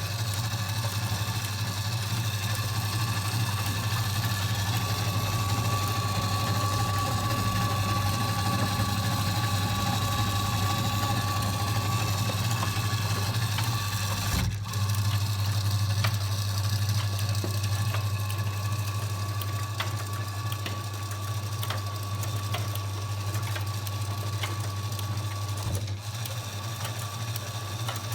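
Washing machine running with a steady motor hum and a whine, briefly interrupted twice, about halfway through and near the end.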